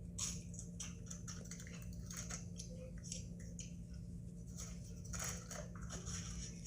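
Crunching of Doritos tortilla chips being bitten and chewed: a string of short, crisp crunches, irregular and close together.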